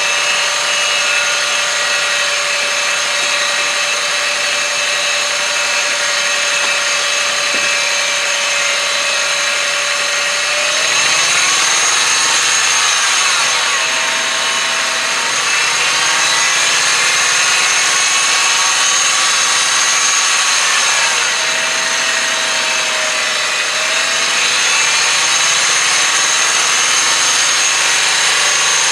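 2001 Honda Insight's 1.0-litre three-cylinder engine running with a steady high-pitched whine over it, which the owner thinks comes from a bad idler pulley. The engine speed rises and falls about ten seconds in and again about twenty seconds in.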